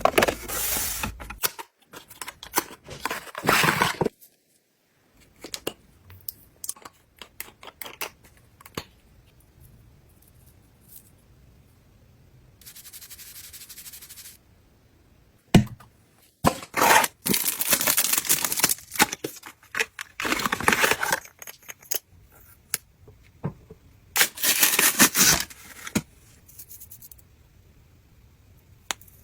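Packaging being opened and handled by hand: tearing, rustling and crinkling of wrappers, with many small clicks and taps of items being picked up and set down. Several louder rustling bursts come in the second half, and a soft steady hiss lasts about two seconds near the middle.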